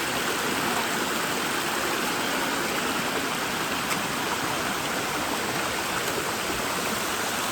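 Steady rush of water from a mountain waterfall, an even, unbroken noise.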